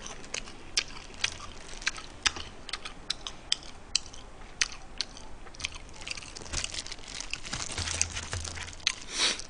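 Close-miked chewing of crispy fried chicken: irregular sharp crunches and mouth clicks, about two or three a second, coming thicker near the end.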